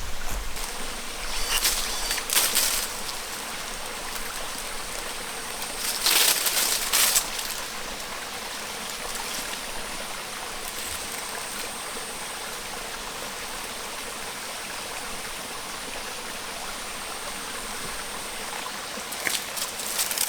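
Steady rush of flowing water, like a stream, with two short louder bursts of noise in the first seven seconds.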